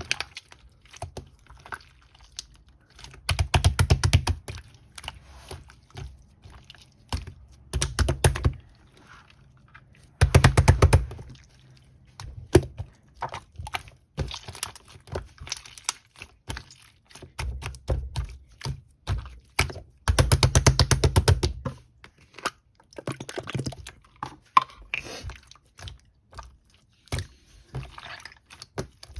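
Slime being squished and pressed by hand, making rapid crackling clicks and pops in repeated bursts of a second or two, with quieter scattered clicks between.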